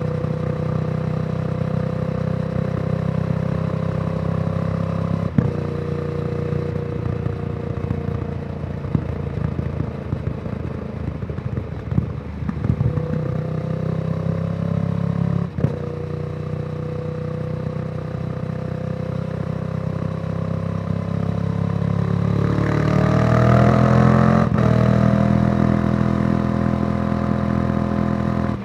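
2014 Yamaha YZF-R1's crossplane inline-four running through a Yoshimura exhaust on the move, with an uneven, twin-like beat. Near the end the engine revs up, rising in pitch, then drops sharply as it shifts up.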